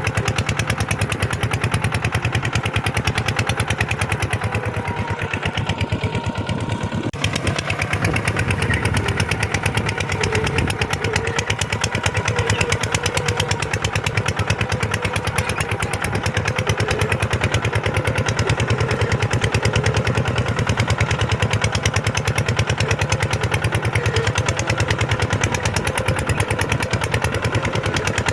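Tractor diesel engine running steadily, a fast, even chug of firing pulses.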